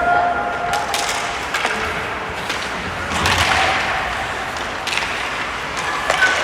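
Ice hockey game sounds in a rink: skates scraping on the ice and sharp knocks of sticks and puck every second or two over a steady background din.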